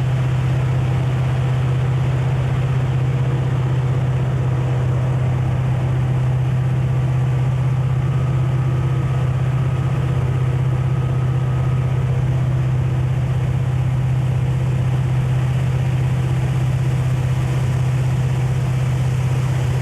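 Diesel locomotive engine running steadily with a strong, unchanging low hum.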